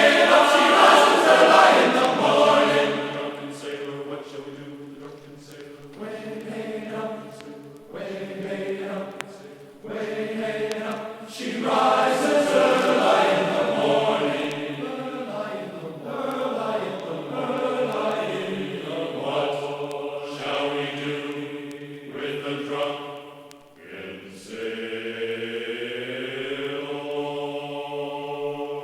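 Background music of chanted or choral singing: sustained voices holding and sliding between notes.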